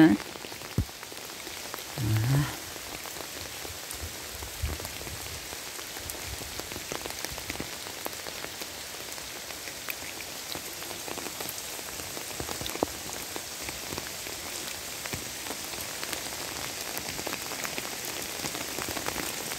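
Steady rain falling, a constant hiss with a patter of many small irregular drop ticks. A brief low sound comes about two seconds in.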